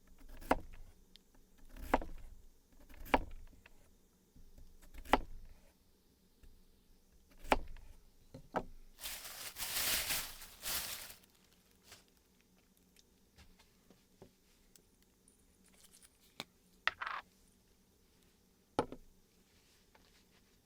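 A series of sharp knocks and clinks from objects being handled, with a brief rushing hiss about nine seconds in and a short ringing clink near the end.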